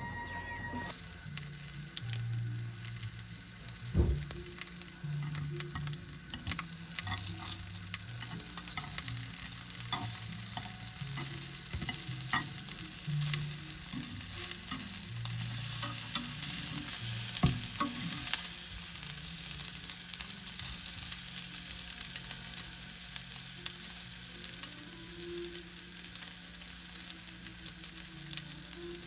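Food sizzling as it fries in a pan: a steady hiss with scattered clicks and taps.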